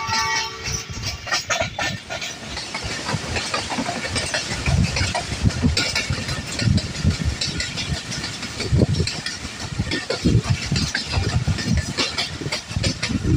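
Passenger train running along the track: a steady rumble and hiss with irregular clattering of the wheels over the rails.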